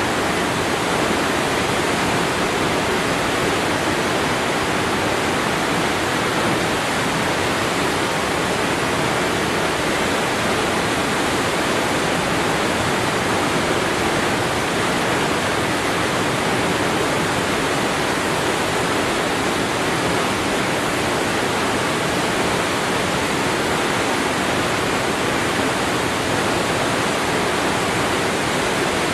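Waterfall: the steady, unbroken rush of falling water, full and even across low and high pitches.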